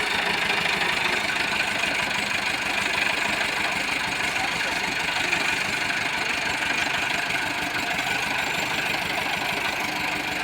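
Tractor diesel engine running steadily at idle, with a fast, even knock.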